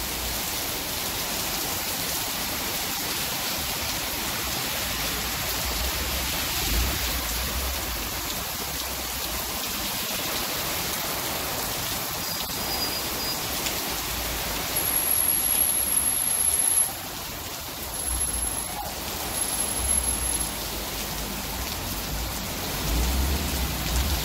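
Heavy rain pouring onto a paved street and tiled pavement as a steady, dense hiss. Now and then there is a low swish of a car driving through the flooded road, most clearly near the end.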